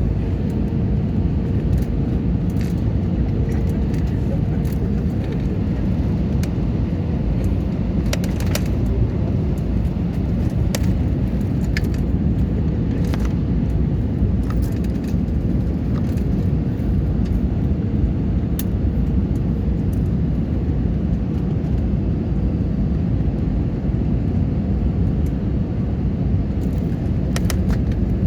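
Steady low engine rumble with a faint steady hum, holding level throughout.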